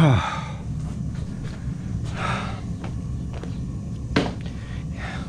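A man's voiced sigh falling steeply in pitch, then breathing out, as he rests from hammering. A single sharp knock comes about four seconds in, over a steady low hum.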